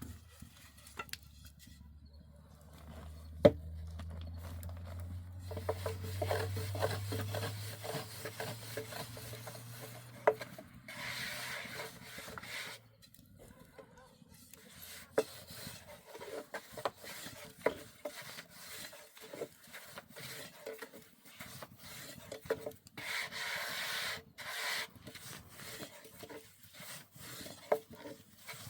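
Repeated rubbing and scraping with scattered light knocks and taps, heaviest in two stretches about eleven and twenty-three seconds in. A low hum runs underneath for roughly the first twelve seconds.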